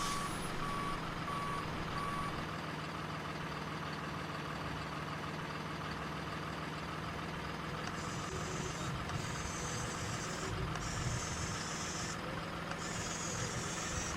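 A radio-controlled toy truck's sound effects: a steady engine hum, with about four short electronic reversing beeps in the first two seconds. From about halfway, a high hiss comes and goes in spells of about a second.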